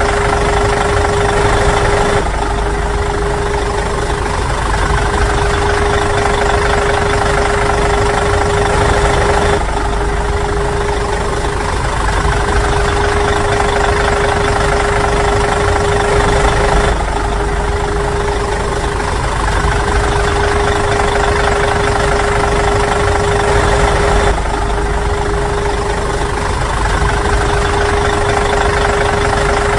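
Steady engine-like running sound with a constant hum, its character shifting slightly about every seven seconds.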